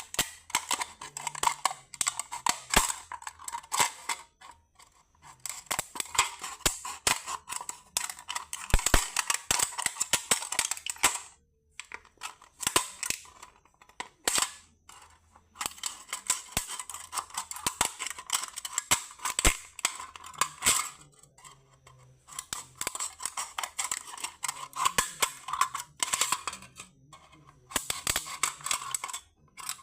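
Scissors snipping a thin aluminium beer can, many quick clicking cuts one after another, with a short pause about a third of the way in.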